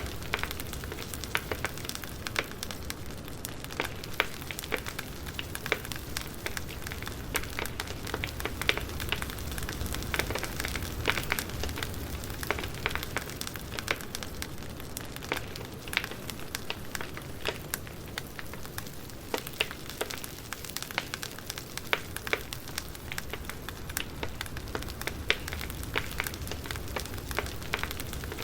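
Wood fire crackling steadily: a constant low hiss of burning logs with frequent irregular sharp pops and snaps.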